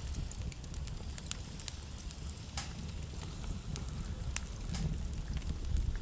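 Wood fire burning in a fireplace: irregular crackles and sharp pops of burning logs over a low steady rumble of the flames, with a couple of louder pops midway.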